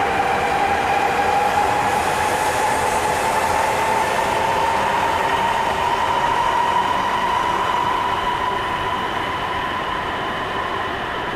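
Shinkansen train accelerating away after departure: a steady whine from its traction motors climbs slowly in pitch over the rolling noise. It eases off near the end.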